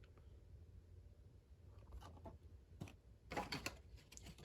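Quiet room tone with a few faint clicks and taps, bunched together about three seconds in.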